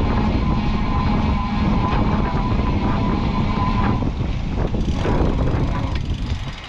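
A vehicle's motor running with a steady whine over a loud rushing noise, easing off near the end.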